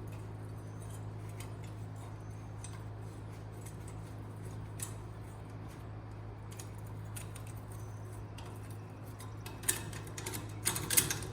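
Small metal parts and tools clicking and clinking as bolts are handled during suspension work, with a few sharper clinks near the end, over a steady low hum.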